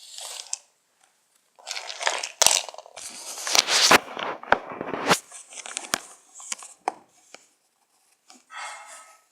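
Toys being handled, with rustling and a run of sharp plastic clicks and knocks, busiest in the middle.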